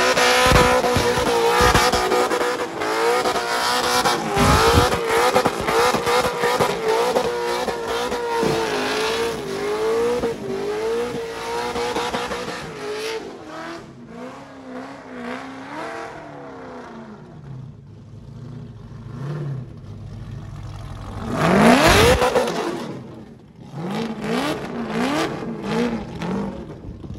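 Supercharged engine of a burnout ute held at high revs with the rear tyres spinning in smoke, its pitch wavering up and down as the throttle is worked. About halfway through it drops to a low, lumpy idle, then is revved sharply once and blipped several more times near the end.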